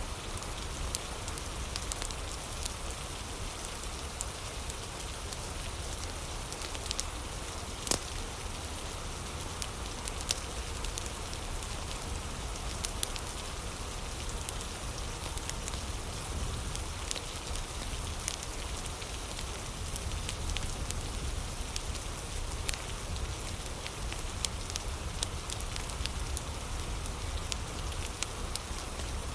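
Steady rain with scattered sharp crackles and pops of a wood fire, over a low rumble.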